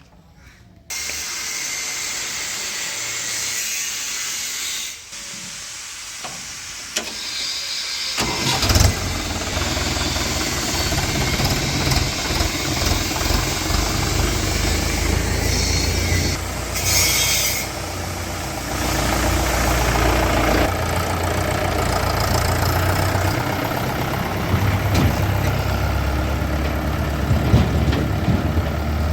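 A steady hiss for the first several seconds, then a heavy diesel engine running from about eight seconds in, its rumble rising and dipping as it works.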